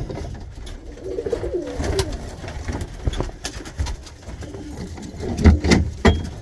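Tippler pigeons cooing in a loft, a low wavering coo about a second in, with scattered clicks and a few louder knocks about five and a half seconds in.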